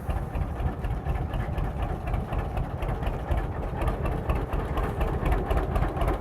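Tractor engine running steadily with a rapid, even low pulse.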